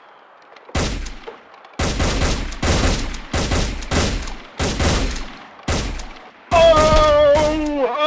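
A volley of gunshots, about a dozen sharp shots in quick succession, roughly two a second. Near the end, a held, wavering tone comes in over the last shots.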